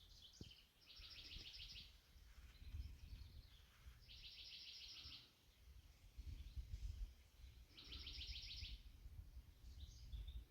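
A songbird singing the same short phrase four times, a few seconds apart: a couple of brief high notes, then a fast trill lasting about a second. A faint low rumble lies underneath.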